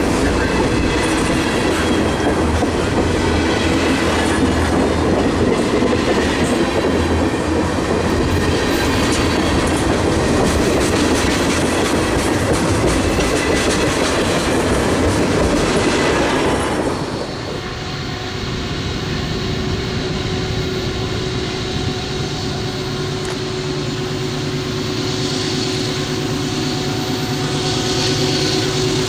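CSX freight train passing close, the wheels of its cars rolling and clattering on the rails. About 17 seconds in the sound drops abruptly to a quieter, steadier rumble with a held tone.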